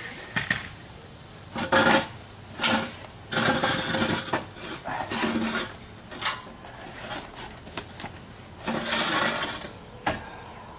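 Short bursts of hissing from an aerosol spray-paint can, several times, each under a second, mixed with clinks and rubbing of metal parts as the old exhaust manifolds are painted and handled.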